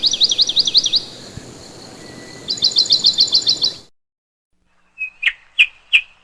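Songbirds calling: two quick high trills of repeated down-slurred notes over a faint hiss, then, after a short break, a few separate sharp chirps.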